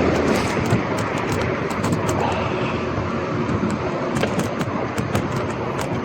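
Scott Scale gravel bike rolling along a street: steady tyre and road noise with many quick, irregular clicks and rattles from the bike over the uneven surface. A louder rumble at the start dies away within about a second.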